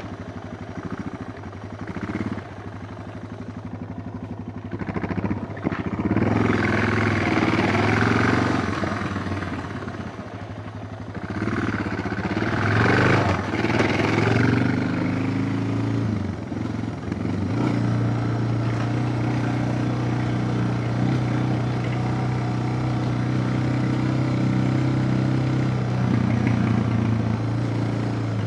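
Suzuki DR650's single-cylinder four-stroke engine running while ridden, revving up and easing off twice, then settling to a steady speed a little past the middle.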